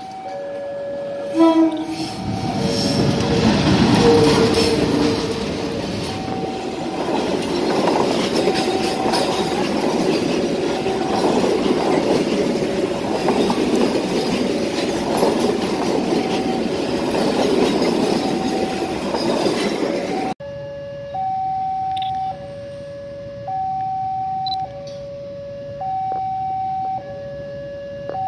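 A railway level-crossing alarm sounds its two alternating tones over and over. A diesel locomotive gives a short horn blast about a second and a half in, then a longer one, and hauls its passenger coaches past with the noise of wheels on rail. About twenty seconds in the train noise stops suddenly, leaving only the crossing alarm.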